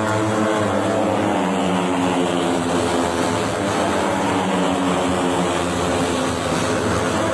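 A steady engine drone holding an almost constant pitch, with a noisy rush over it.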